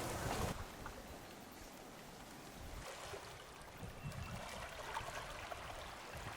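Wind buffeting the microphone over surf, which cuts off about half a second in. Faint trickling water and small ticks follow.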